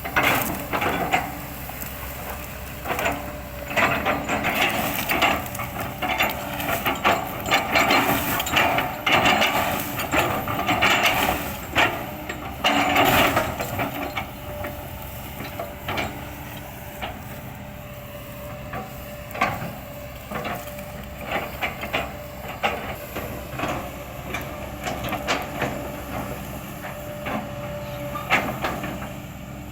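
Kobelco excavator chopping an oil palm trunk with its bucket: repeated cracks and thuds of fibrous wood breaking, busiest in the first half, over the steady running of the engine and hydraulics.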